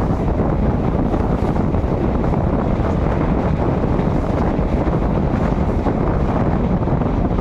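Express passenger train running at speed: the steady rumble of the coach, with wind buffeting the microphone.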